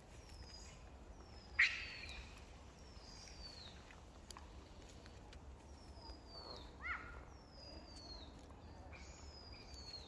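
Faint high chirps, each falling in pitch, repeated about once a second, with a louder sharp squeak about a second and a half in and another short call near seven seconds.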